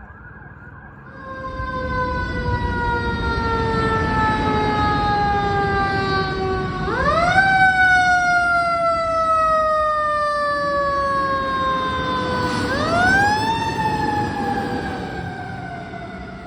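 Fire truck passing with its siren sounding: a wailing tone that winds up sharply twice and then coasts slowly down in pitch each time, in the manner of a mechanical Q-type siren. Heavy engine and road rumble comes in about a second in and fades near the end.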